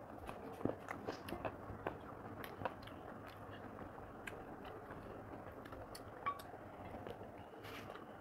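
A person chewing and biting chicken curry and rice close to the microphone, with frequent short wet mouth clicks in the first few seconds that thin out later, while fingers mix rice on a plate.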